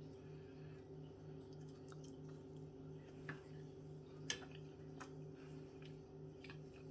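Very quiet room with a steady low hum and a few faint, short clicks and taps, the sharpest about four seconds in.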